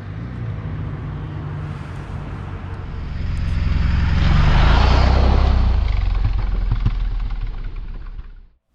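Parallel-twin engine of a KTM 790 Adventure motorcycle running steadily. A passing vehicle swells loud through the middle and fades away, and the sound cuts off abruptly near the end.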